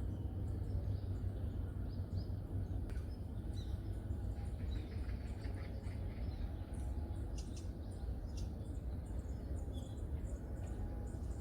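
Small birds chirping in scattered short calls over a steady low rumble.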